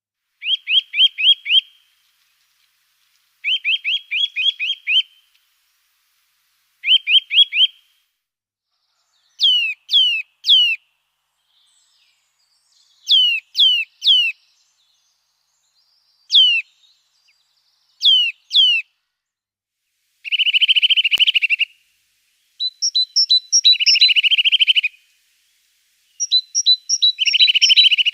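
Small songbirds singing in short separate phrases: first quick runs of about five or six notes, then clear whistles sliding downward in twos and threes, and in the last third buzzier trills with high, thin notes over them.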